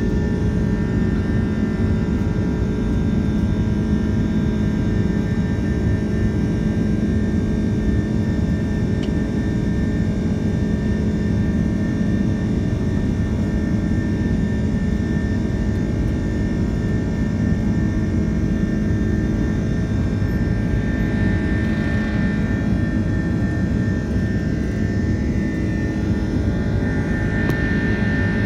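Airbus A330's turbofan engines heard from inside the passenger cabin, running steadily at high takeoff power: a loud, even rumble with a steady low hum and a steady high whine.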